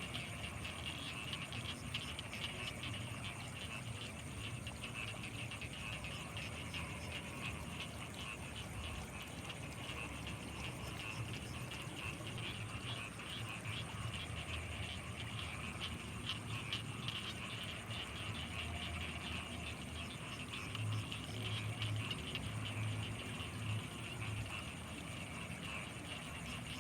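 Night chorus of frogs and insects in rice fields: a steady high chirring full of rapid ticks over a low pulsing croak. The low pulses grow stronger for a few seconds about three quarters of the way through.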